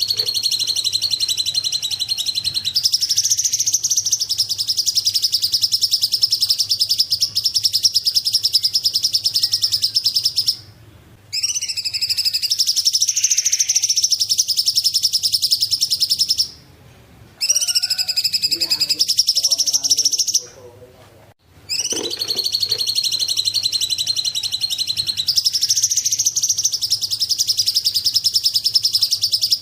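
Song of the small bird called cungkok: long runs of a rapid, high trill, each lasting several seconds, broken by three short pauses.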